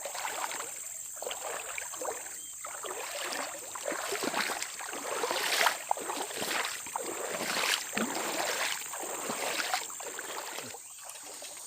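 Footsteps wading through shallow floodwater, with repeated splashes and sloshing as the legs push through the water.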